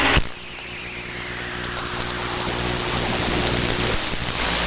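CB radio receiver static: a short burst as a transmission drops, then a hiss that slowly grows louder over a faint steady hum.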